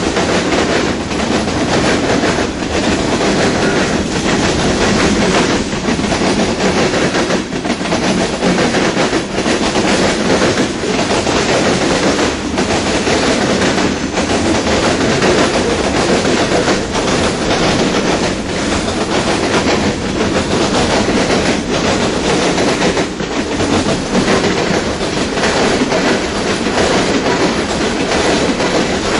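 Freight cars of a mixed freight train rolling past close by: a steady, loud noise of steel wheels on the rails, with repeated faint clicks every second or so.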